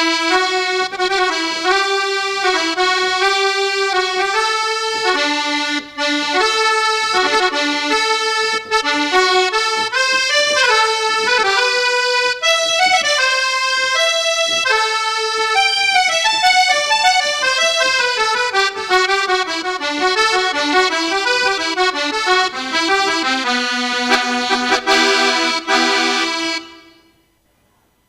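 Roland GW-8 arranger keyboard playing a melody over held chords on one of its tones, stopping about a second and a half before the end.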